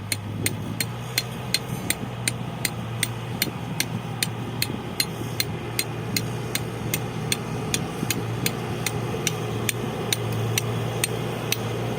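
Diesel engine of heavy earth-moving machinery running steadily, with sharp, evenly spaced clicks about two or three a second over it that stop near the end.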